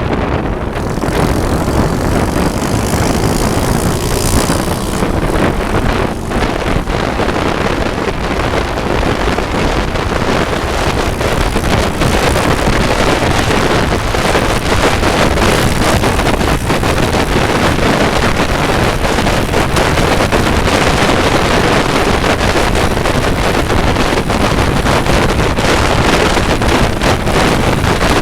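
Wind buffeting the microphone on a moving motorcycle, with engine and road noise underneath.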